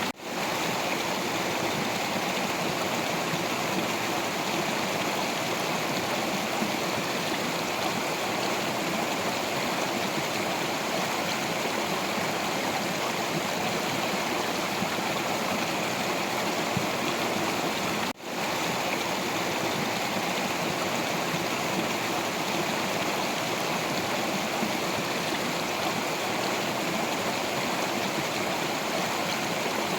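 Stream water flowing and splashing over rocks: a steady, dense rushing with gurgling, cut for an instant once a little past halfway.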